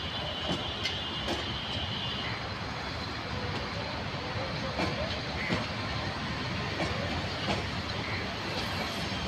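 Bangladesh Railway intercity passenger coaches rolling past on the track: a steady rumble with irregular clacks of the wheels over rail joints, and a faint high squeal in the first two seconds.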